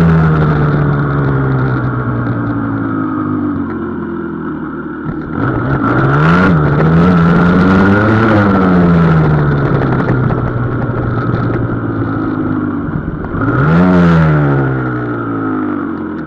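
Husqvarna SM 125 supermoto's two-stroke single running under way, its exhaust diffuser restrictors cut out. Revs fall at first, rise and drop back twice about six and eight seconds in, hold steady, then rise and fall again near the end.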